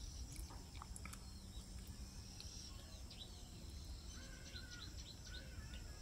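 Faint birds chirping, many short high calls over a low steady background hum, with a few lower level calls about four to five seconds in.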